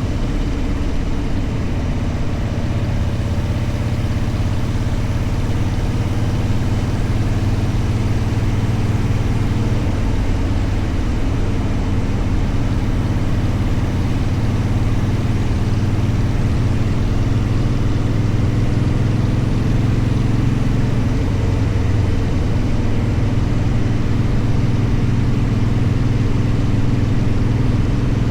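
Motorcycle engine running steadily while riding, its note holding fairly even throughout.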